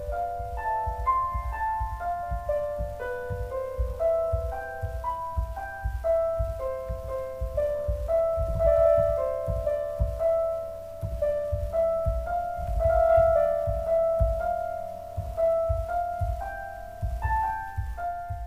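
Background piano music: a slow melody of held notes over a steady low accompaniment, fading out near the end.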